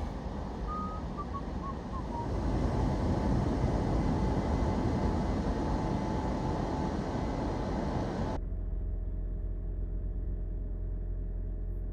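Drive-through automatic car wash heard from inside the car: a steady rushing noise that grows louder about two seconds in, then stops suddenly after about eight seconds, leaving a low steady hum.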